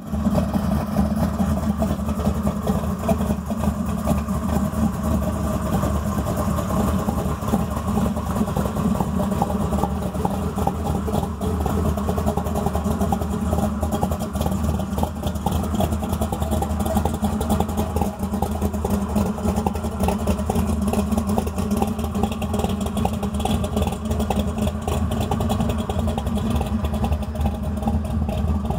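Summit Racing 509 cubic-inch big-block Chevrolet V8 in a 1941 Willys coupe hot rod idling steadily as it warms up.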